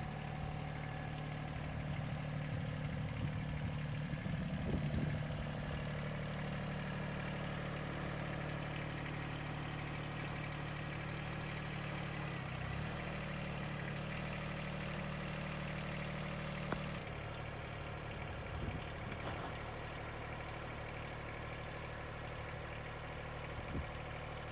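John Deere 2320 compact tractor's three-cylinder diesel engine running steadily at idle. Its pitch dips briefly about halfway through, and it settles slightly quieter a few seconds later.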